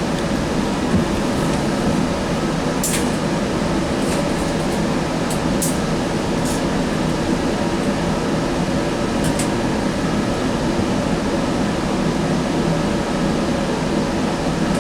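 Steady interior noise of a Sound Transit Link light rail car, mostly its air-conditioning fans running, with a few faint clicks.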